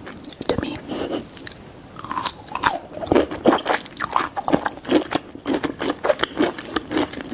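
Close-miked eating of pizza: biting and chewing, heard as short crisp strokes. The strokes are sparse at first and come thicker and louder, about two to three a second, from about three seconds in.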